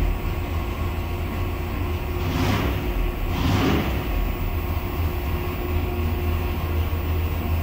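Carbureted race engine on an engine dyno, heard through the test-cell glass, running steadily off-throttle just after a full pull, at about 2,400 rpm and settling toward about 1,200 rpm near the end. Two brief hisses about 2.5 and 3.5 seconds in.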